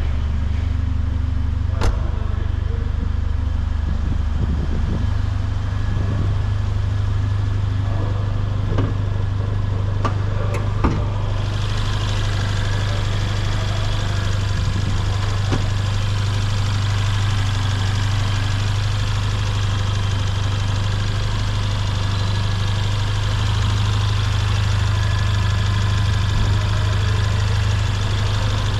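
Mercedes-AMG GLA 45's 2.0-litre turbocharged four-cylinder engine idling steadily with a low hum, with a few light clicks in the first part and a steady hiss joining about a third of the way through.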